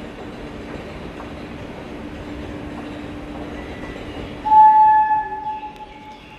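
Metro train rumbling steadily at the station, then a single horn blast past the middle that fades out over about a second and a half.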